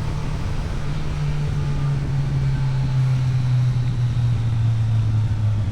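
An engine running steadily at an even speed, a loud low drone that holds its pitch and level, then stops abruptly.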